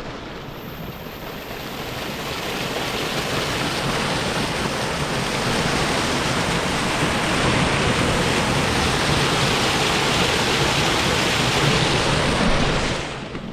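Waterfall: water falling and rushing in a steady, even noise that grows louder over the first several seconds and drops suddenly near the end.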